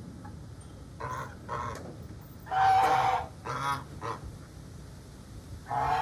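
Domestic geese honking: a run of short calls, the loudest and longest about two and a half seconds in, and another burst of honks near the end.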